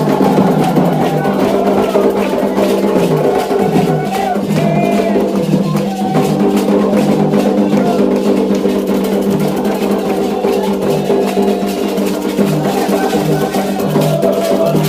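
Candomblé ceremonial drumming: hand drums and a clicking, wood-block-like percussion keeping a steady rhythm.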